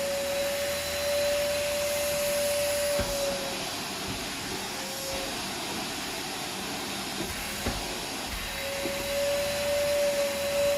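Vacuum cleaner running with a steady suction hiss and a whistling tone that fades out about three seconds in and comes back near the end, with a few faint clicks in between.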